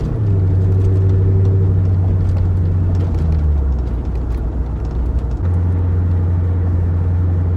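C5 Corvette's V8 running steadily under way, heard from inside the cabin over road noise. The engine drone drops lower about three seconds in and rises again at about five and a half seconds.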